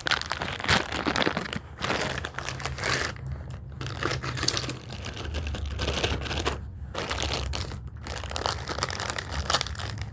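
A bag of welding-lead connector parts crinkling and rustling as it is handled and emptied, in irregular bursts.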